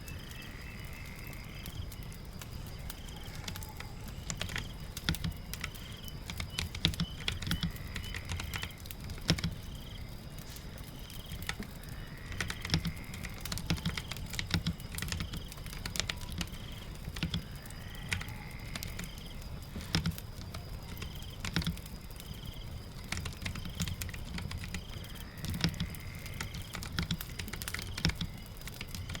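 Layered ambience of typing, rain and a crackling fire: scattered, irregular keyboard clicks and crackles over a steady low patter of rain. A short rising chirp repeats every few seconds.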